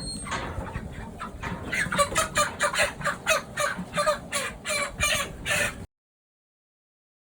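Chickens clucking in short repeated calls, about three a second, cutting off abruptly into dead silence near the end.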